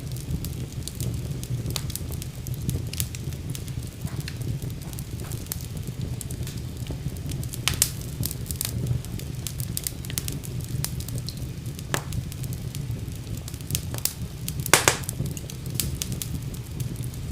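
Wood fire crackling in a fireplace: a steady low rumble of flames under scattered sharp pops and crackles, two of them louder, about eight and fifteen seconds in.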